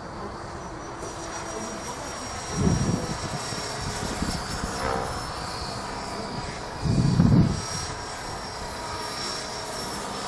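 T-Rex 500 model helicopter flying, its motor and rotor giving a steady whine. Gusts of strong wind buffet the microphone twice, about three and seven seconds in; these are the loudest sounds.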